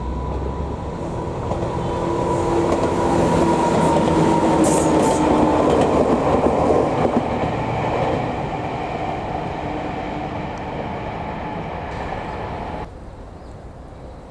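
A train running past, its noise swelling to a peak in the middle and then fading, with a few steady tones over the rumble, before the sound cuts off abruptly about a second before the end.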